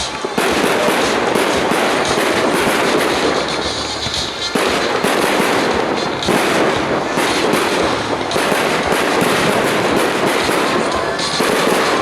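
Fireworks display: a dense, loud barrage of bangs and crackling shells going off in quick succession.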